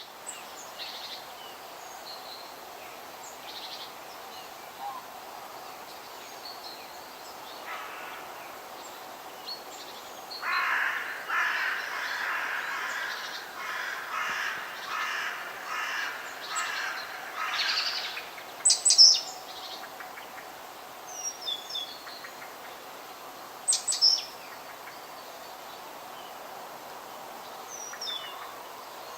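Forest birds over a steady background hiss. Midway through, a bird gives a run of about eight repeated calls, roughly one a second. Short, high chirps from small birds follow, the loudest a little after the calls stop.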